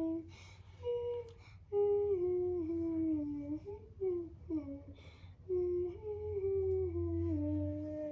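A child humming a wordless tune in long held notes, each phrase stepping down in pitch, over a steady low hum.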